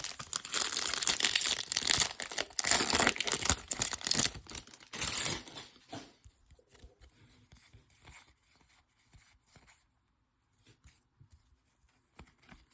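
A 2021 Topps Series 2 retail card pack wrapper being torn open and crinkled, loud for about five seconds. After that come only faint ticks and rustles of cards being handled.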